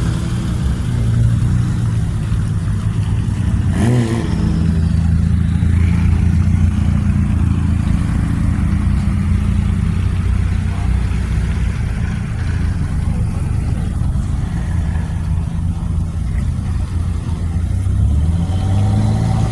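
Car engine running at low revs with a deep, steady rumble. A brief sharp sound comes about four seconds in, and the revs climb near the end.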